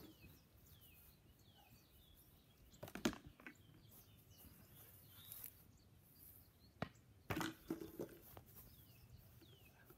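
Faint bird chirps over quiet outdoor background, broken by a few sharp knocks from a wooden paddle striking a tennis ball. The loudest knock comes about three seconds in, and a cluster follows around seven seconds.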